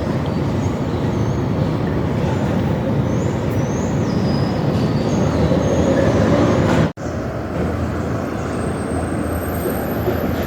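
Steady city traffic rumble, with faint high bird chirps and short whistled slides above it. The sound breaks off for an instant about seven seconds in.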